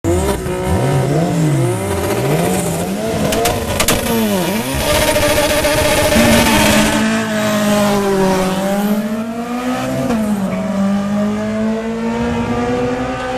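A car engine being revved, its pitch swinging up and down several times, with a few sharp pops a little before four seconds in. From about six seconds in it holds a steadier pitch with small dips and rises.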